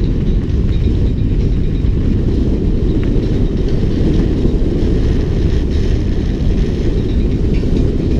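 Wind buffeting the microphone at speed while a mountain bike is ridden down a trail. It makes a loud, steady rumble, with faint ticks and rattles from the bike over the top.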